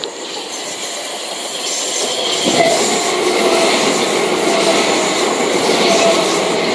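Gatwick Express Class 387 electric multiple unit pulling into the station, its running noise growing louder from about two and a half seconds in.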